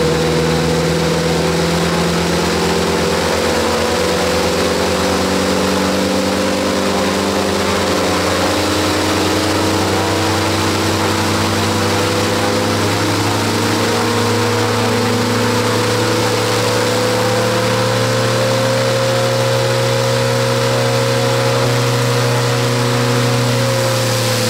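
A 5.3-liter Chevy V8 truck engine runs steadily, turning a propeller through a geared reduction drive (PSRU), on a test stand. Its pitch rises slowly, then eases down slightly near the end.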